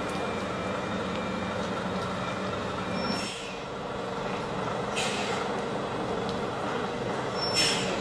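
Heavy truck engine running steadily, with three short hisses of air about three, five and seven and a half seconds in; the last hiss is the loudest.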